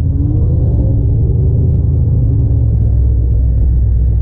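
Dodge D150 pickup truck's engine rumbling steadily at low revs, heard over a car's own running engine.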